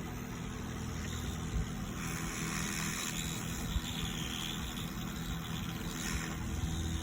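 Steady low hum of bench repair equipment, with a hiss of blowing air from about two seconds in until about six seconds in, typical of a hot-air rework station heating a motherboard component to remove it.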